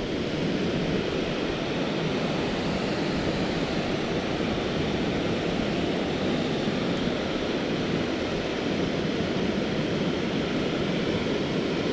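Steady rushing of river water pouring over a shallow waterfall, an even wash of noise that holds constant throughout.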